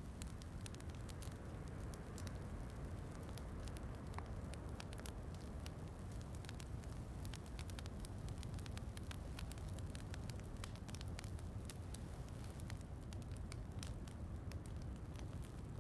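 Wood fire crackling, with many small sharp pops scattered throughout, over a steady low rushing noise of rain.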